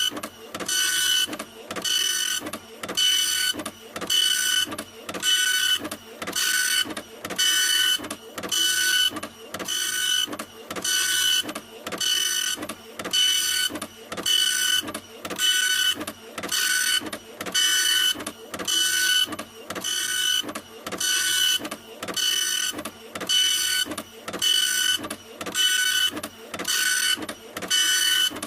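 Printer running continuously, its mechanism making a rhythmic whirring pass about three times every two seconds, each pass with a steady high tone in it.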